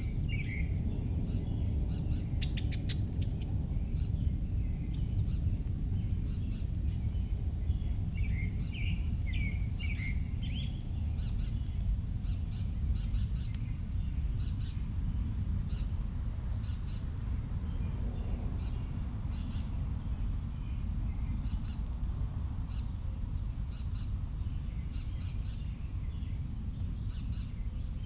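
Small birds chirping in short twittering bursts at the start and again about eight to eleven seconds in, with scattered short high ticks throughout, over a steady low rumble.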